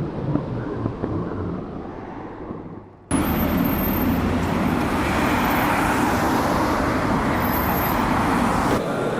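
Vehicle engine hum fading away over about three seconds, then an abrupt cut to loud, dense city traffic noise that lasts to the end.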